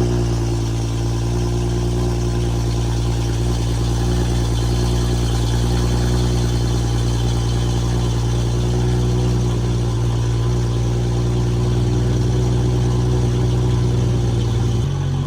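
2015 BMW 335i's turbocharged inline-six idling steadily through a catless downpipe and muffler-deleted exhaust, not yet fully warm. The idle steps down to a lower pitch near the end.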